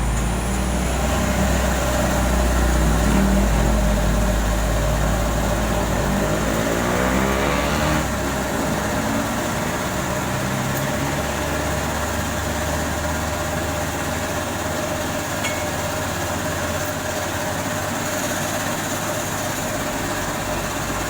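Heavy truck's diesel engine running, a deep rumble for the first several seconds. Its pitch slides about six to eight seconds in, then it settles into a lighter steady running sound.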